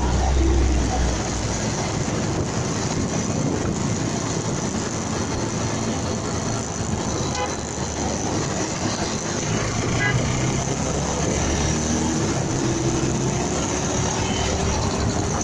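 Motorcycle engine running with steady road and wind noise, heard from a bike-mounted dashcam while riding. A faint rising whine comes in during the last few seconds.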